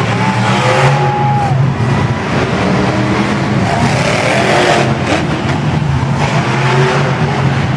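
Monster truck engine running with a low, steady drone, while the crowd cheers and whistles over it.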